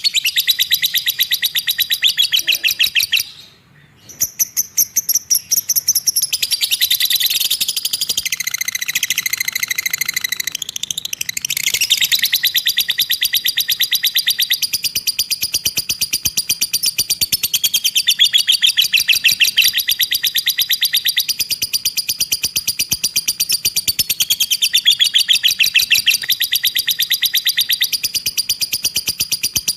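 Cage bird singing a long, very fast chattering trill of high repeated notes, with a short break about three and a half seconds in.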